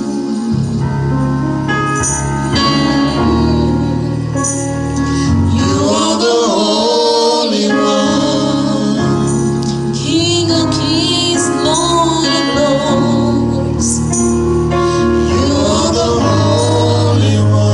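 Gospel song: voices singing over sustained instrumental accompaniment with steady low notes.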